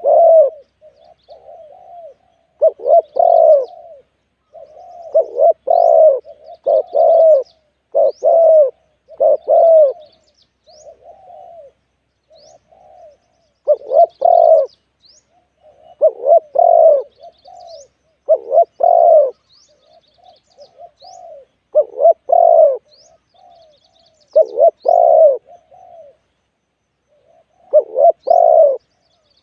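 Spotted dove cooing close up: loud coo phrases of two or three notes repeated about every two seconds, with softer coos between them. Faint high chirps of small birds sound in the background.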